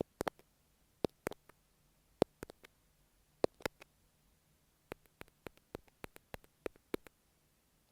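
Sharp, irregular taps and clicks on an earphone microphone, ASMR triggers, coming a few a second with short pauses between.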